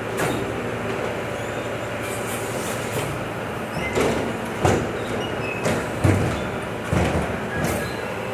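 Volvo FM 370 truck's diesel engine running steadily, with several sharp clunks and rattles from about four seconds in.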